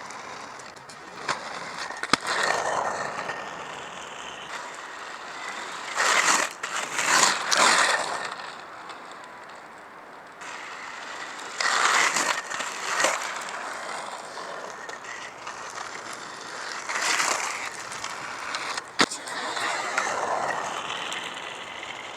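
Inline skate wheels rolling and scraping on pavement during wizard-skating moves. The rolling noise swells in several surges of a second or two, with a sharp click about two seconds in and another near the end.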